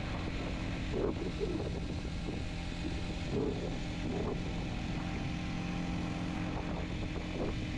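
Kawasaki Z125's single-cylinder 125 cc four-stroke engine running at a steady speed under way, with wind rushing over the microphone.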